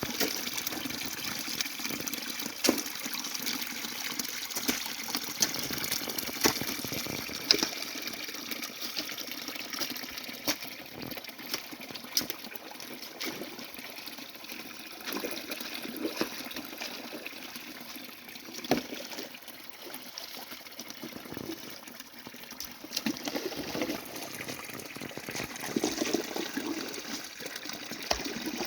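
Water of a small stream running steadily, with frequent short splashes and knocks throughout.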